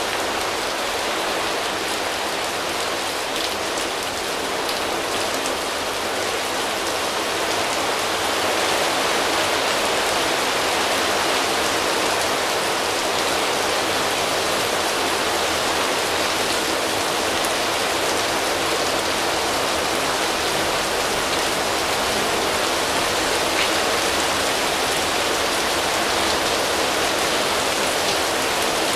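Steady rain falling on foliage, drops pattering on leaves in a dense, even hiss that grows a little louder about eight seconds in.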